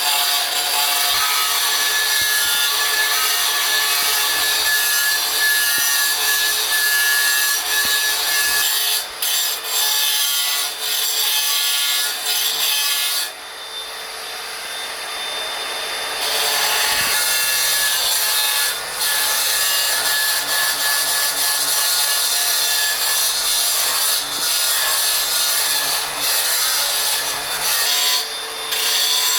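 A power tool grinding on stone, a steady harsh rasping with a constant motor whine. It eases off for a few seconds about halfway through, then carries on.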